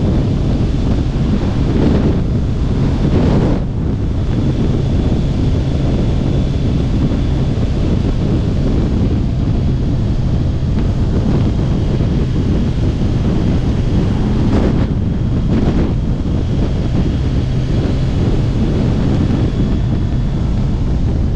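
Heavy wind buffeting on the microphone while riding a Kawasaki Ninja 1000SX, with the bike's inline-four engine running steadily underneath as a low hum.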